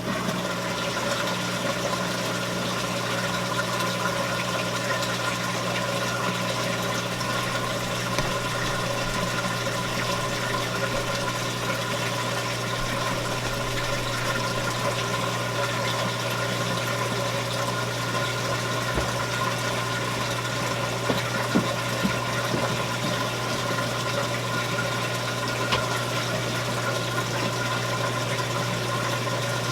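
Admiral belt-drive washing machine, built by Whirlpool, in its neutral drain: the motor runs the drain pump with a steady hum while water is pumped out of the tub.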